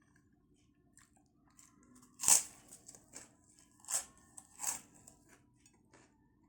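Close-up eating sounds: crisp bites and chewing of fried batagor. There is a loud crunch a little over two seconds in, then two more about a second and a half later, with small wet clicks between them.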